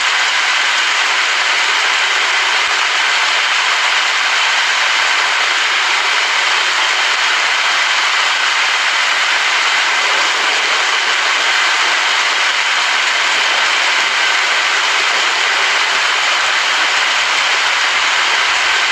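Steady heavy rain, a dense even hiss with no thunder.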